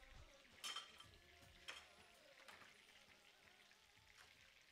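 Faint sizzle and crackle of breaded chicken cutlets shallow-frying in oil in a pan, with two brief sharp clicks about one and two seconds in.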